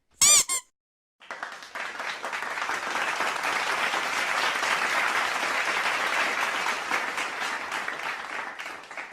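Crowd applause, many hands clapping, swelling in, holding for several seconds and fading out near the end. Just before it comes a brief wavering pitched blip.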